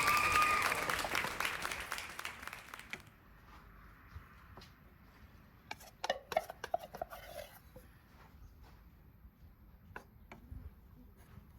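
Applause fading out over the first three seconds, then faint, scattered clinks of dishes and utensils.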